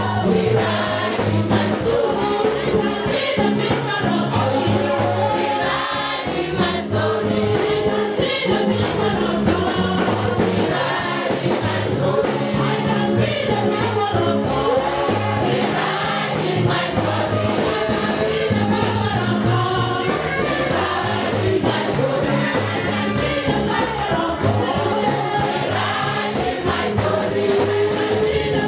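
Gospel praise music: a choir and congregation singing together over instrumental backing with a steady bass line.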